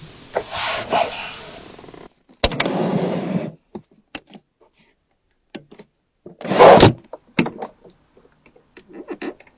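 A string of clicks and knocks from a 2014 Rolls-Royce Phantom's doors and fittings being worked, with two short rushing noises early on and the loudest, a brief heavy thunk, a little past halfway.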